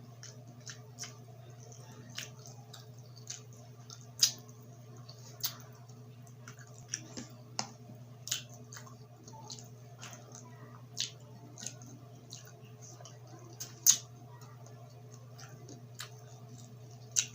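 Close-up eating sounds of grilled street food being chewed: irregular sharp crunches and mouth clicks over a steady low hum.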